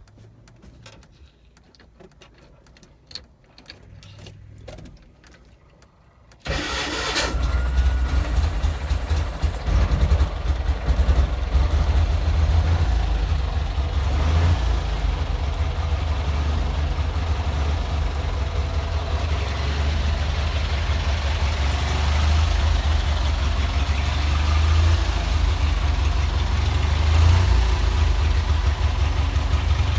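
1962 Roustabout Trivan's Kohler two-cylinder air-cooled engine being cold-started on choke. After a quiet stretch with faint clicks, it catches suddenly about six seconds in and keeps running at a steady idle.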